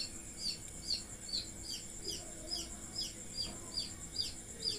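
A small bird chirping over and over, about two to three short falling chirps a second, over a faint steady high whine.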